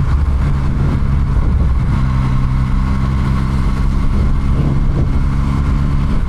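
Motorcycle engine running at a steady cruise while riding, picked up by an onboard microphone along with a rush of wind and road noise.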